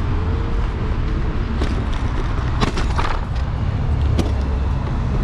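Street and traffic noise from a moving electric scooter: a steady low rumble of road and wind noise, with a few sharp clicks and rattles around the middle.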